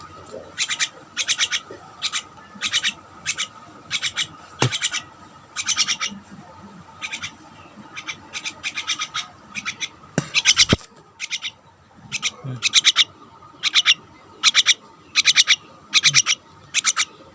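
Pet birds, called martins, giving short harsh squawking calls in quick clusters, over and over. A couple of faint low bumps come through between them.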